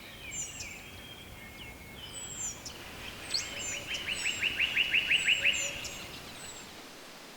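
Songbirds chirping over a steady background hiss, with short high notes scattered throughout. About three and a half seconds in, one bird gives a fast trill of repeated notes, about five a second, which is the loudest sound and stops about two seconds later.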